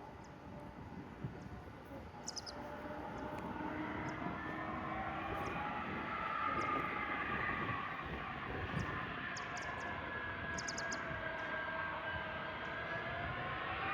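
Jet airliner's engines growing louder as it approaches: a rushing roar with a whine that slowly bends in pitch.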